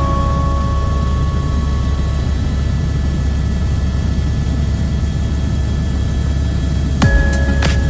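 A vehicle engine running with a steady low drone and a haze of travel noise. About seven seconds in, a few sharp clicks and steady tones come in over it.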